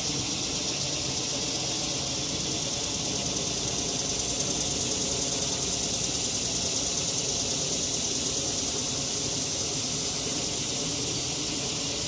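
A steady high-pitched hiss that runs on unbroken, with a faint low rumble beneath it.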